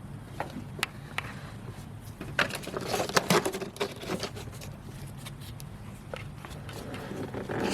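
Light handling noise: scattered sharp clicks and rustles, busiest about two and a half to four seconds in, over a low steady hum.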